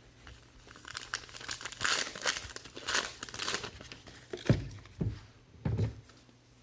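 Trading-card pack wrappers crinkling and tearing as packs are handled and opened, followed near the end by three short dull knocks.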